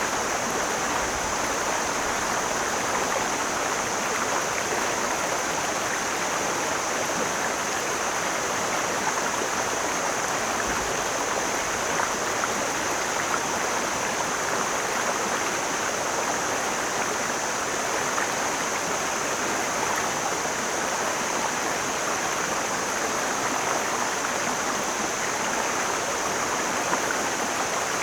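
Mountain stream flowing: a steady, even rush of water with no change, under a constant thin high hiss.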